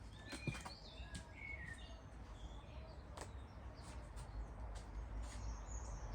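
Small birds chirping in short, scattered calls over a low rumble that grows louder near the end, with a few faint clicks.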